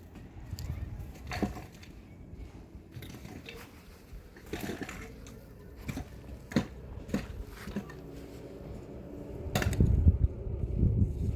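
Irregular knocks and clicks from hands-on work with materials, with a louder run of low thuds and rumbling near the end.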